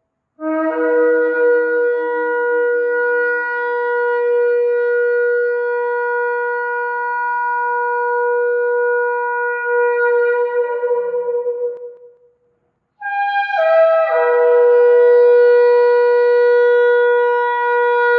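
Shofar blown in two long blasts. The first starts with a brief low note and settles into one steady note held for about eleven seconds. After a short break, the second starts higher and drops in steps to the same steady note.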